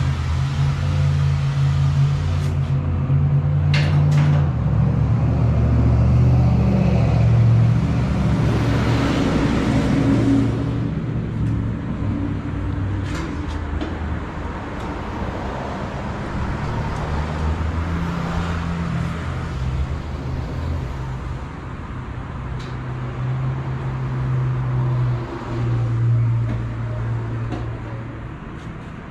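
Dodge Challenger Hellcat's supercharged 6.2-litre Hemi V8 running through an exhaust with its mid mufflers deleted. It runs louder for about the first ten seconds, then settles into a steadier, lower run, with a few sharp clicks along the way.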